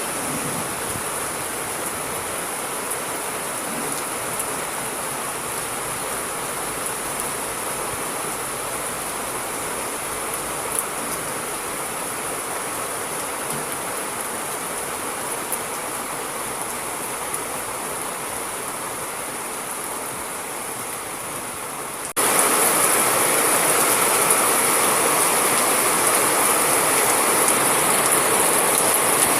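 Steady rain falling, an even hiss. About 22 seconds in it cuts suddenly to a louder stretch of rain.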